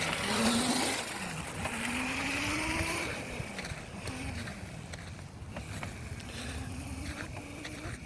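Razor MX350 electric dirt bike's motor whining as it rides, its pitch rising and falling with speed, over rough tyre and wind noise.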